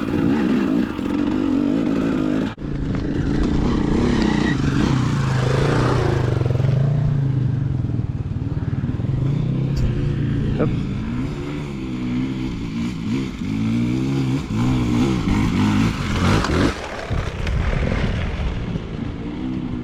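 KTM dirt bike engine climbing a steep, rocky hill, its pitch rising and falling as the throttle is worked. The sound dips for an instant about two and a half seconds in.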